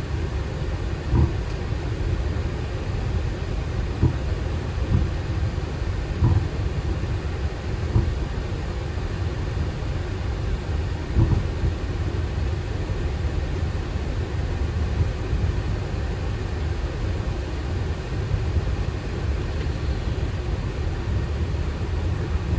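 Boeing 737 cockpit while taxiing: a steady low rumble from the idling engines and the rolling aircraft, with occasional short thumps, most of them in the first half.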